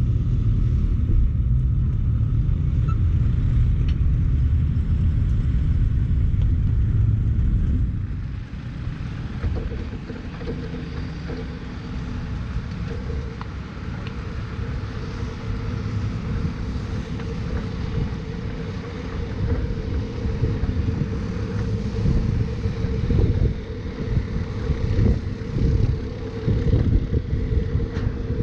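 Turbocharged Mazda Miata running on track with wind buffeting the in-car microphone. A heavy low rumble for the first eight seconds drops off suddenly, then a steady engine tone with rough road and wind noise builds toward the end.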